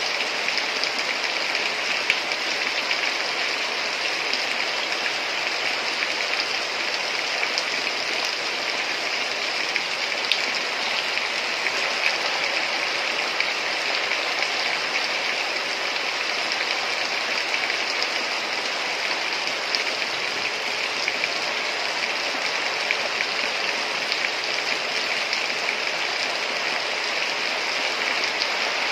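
Steady heavy rain: an even hiss of downpour with faint scattered drop ticks.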